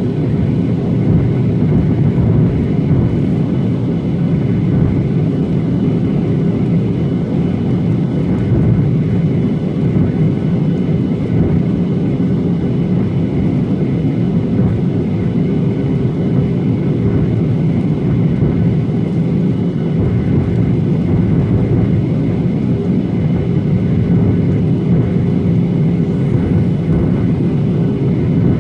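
Boeing 737-800 in flight, its CFM56 jet engines and the airflow making a steady, unchanging drone with a few faint constant tones in it.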